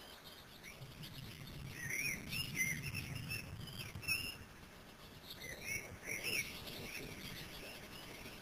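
Bird calls: short, high chirps that rise and fall, in two bouts, about two seconds in and again around six seconds, over a faint low rumble.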